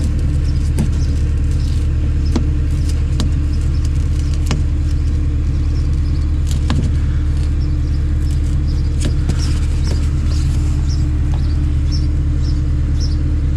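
A steady, loud low machine hum, unchanging, with scattered light clicks and crackles of hand work on the door's plastic rain barrier over it.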